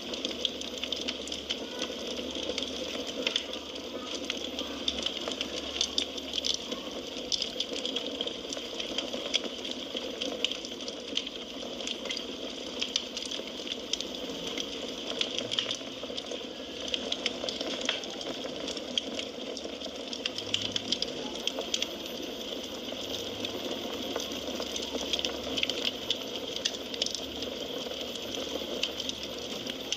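Firewood burning in a fireplace: a steady hiss with many small, irregular crackles and pops.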